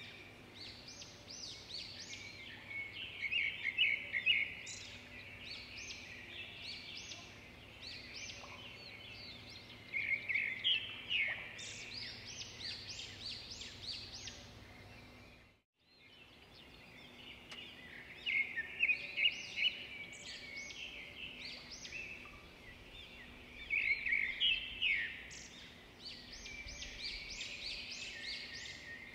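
Birdsong: quick repeated chirps, trills and whistles in bursts over a faint steady hum. It drops out briefly about halfway through, then the calls start again.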